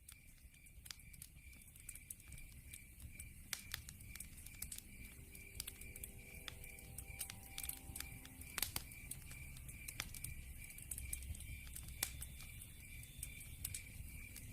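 Wood fire burning in a fireplace: irregular sharp crackles and pops over a low rumble of flame, fading in over the first couple of seconds. Behind it an insect chirps steadily in an even, high pulse about three times a second.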